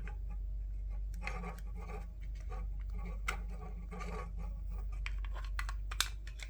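Small scratching and rustling from hands handling a gaming headset's earcup, wire and tape, with a few sharp plastic clicks, the loudest about six seconds in, over a steady low hum.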